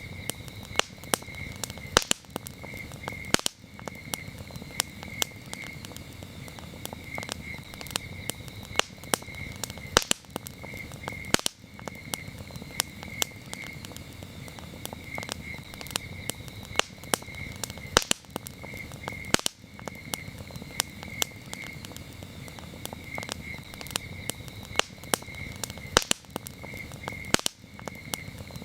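Wood campfire crackling, with sharp pops and snaps at irregular intervals over a low steady burning hiss. Crickets chirp steadily in an even, repeating high-pitched pulse behind it.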